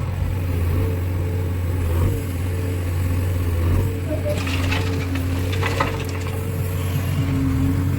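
Heavy diesel engine running steadily at a constant speed, with a stretch of rattling and scraping about halfway through.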